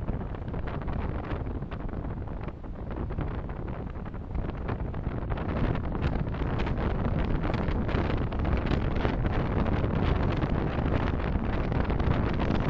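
Road and engine noise of a moving car picked up by a dashcam microphone: a dense, low rumble with small knocks and rattles, getting louder about four seconds in.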